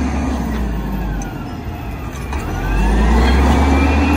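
Diesel engine of a Volvo WX automated side-loader garbage truck running, easing off and then revving up louder about two and a half seconds in, with a faint rising whine above it as the truck works its lifting arm.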